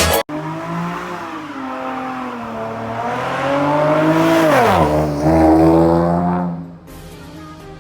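Car engine accelerating, its pitch climbing steadily and then dropping sharply about four and a half seconds in, as at a gear change, before it carries on lower and falls away in level near the end.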